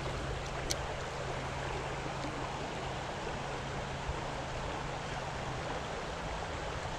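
Creek water rushing steadily, with one brief click under a second in.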